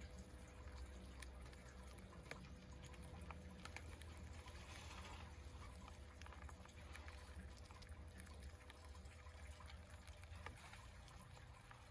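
Near silence: a faint steady low hum with a few scattered small clicks.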